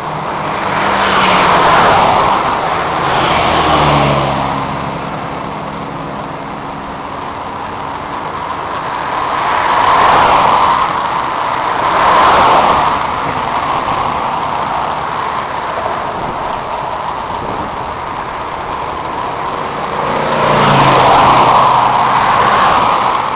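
Road vehicles passing one after another over steady road and wind noise: five swells, each building and fading. Two of them carry an engine note that drops in pitch as the vehicle goes by.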